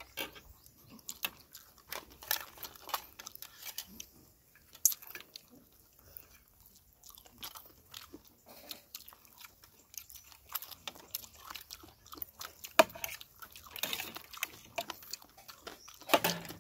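People chewing and biting food close to the microphone: irregular small crunches and wet clicks, coming in thicker bunches near the end.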